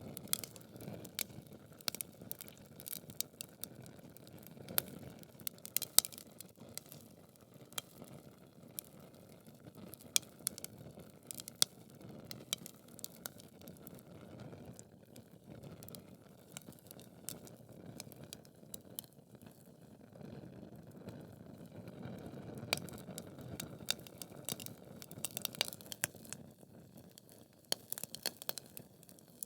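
Wood logs burning in a fireplace: frequent sharp crackles and pops over a soft steady rush of flame.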